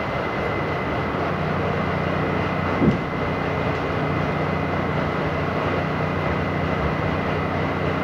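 R68 subway train running at speed: a steady rumble of wheels on rail and traction motors with a thin high whine, and one short clunk about three seconds in.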